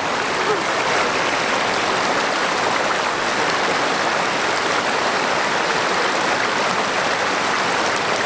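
Stream water running steadily, a constant rushing.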